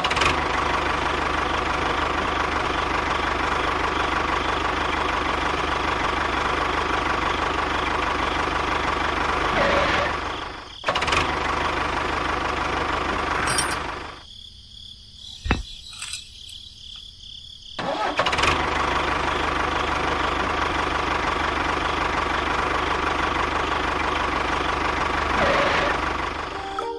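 A motor or engine running steadily. It drops away for about four seconds in the middle, with a single click, then runs again as before.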